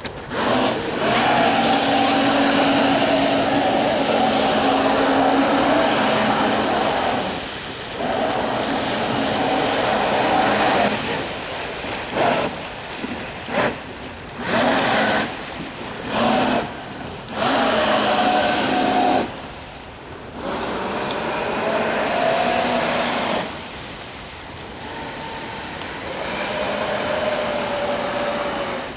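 Battery-powered electric jet drive of a small jet kayak running under power: a steady motor-and-pump whine over a broad rush of noise. The throttle is cut and reopened several times in quick succession in the middle, and it runs quieter and steadier near the end.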